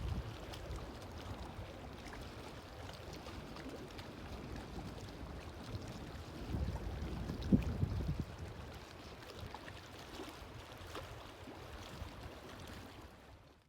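Wind gusting across the phone's microphone, a low uneven rumble that swells louder about six to eight seconds in.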